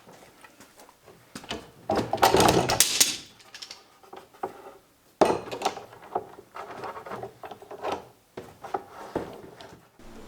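Clamps being set and tightened on a glued, doweled wooden table top to draw the joint tight: scattered knocks and clicks of the clamps against the wood, with two longer stretches of scraping and rubbing, about two seconds in and again from about five seconds in.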